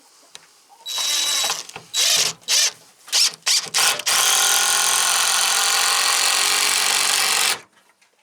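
Power drill run in several short trigger bursts, then held steadily for about three and a half seconds before it stops, typical of drilling or driving fasteners into the wooden roost.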